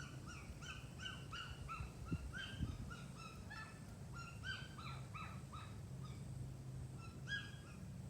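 A rapid series of short, high-pitched squeaky calls from a small animal, about two or three a second, pausing briefly near the end before a final pair.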